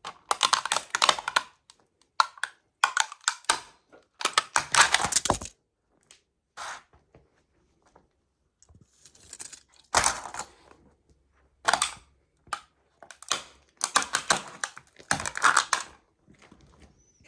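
Toy model trucks crunching and cracking under sneakers. The crushing comes in repeated bursts of dense snapping and crackling, each a second or so long, with short pauses between them.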